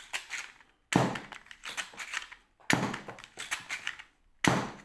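Hamstringer, a 3D-printed hammer-primed stringer dart revolver, fired three times, about 1.8 s apart. Each shot is a sharp snap followed by a short clatter of lighter clicks, with small mechanical clicks from working the hammer and dart in between.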